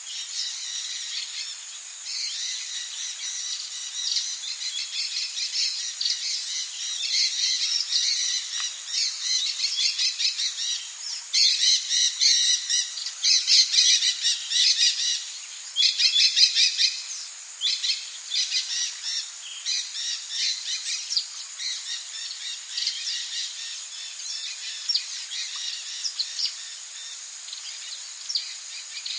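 Rainforest birds calling in quick runs of repeated notes, loudest and densest around the middle, over a steady high hiss of rain.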